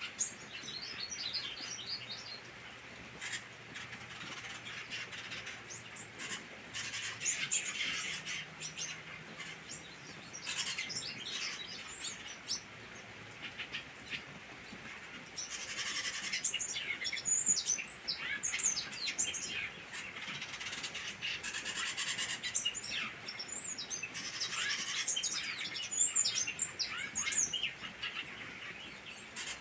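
Several captive diademed tanagers (sanhaço-frade) singing together: a busy chorus of quick, high, warbled phrases that grows denser and louder about halfway through. The birds are worked up and ready to start breeding.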